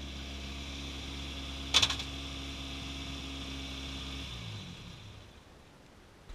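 Peugeot 206 rally car's engine idling steadily, with one sharp crack about two seconds in; a little after four seconds the engine is switched off and runs down, falling in pitch until it stops.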